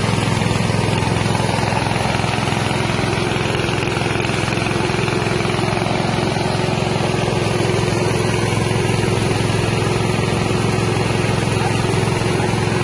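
Small engine-driven rice milling machine running steadily, its 6.5 hp engine and milling rotor giving an even, unbroken drone.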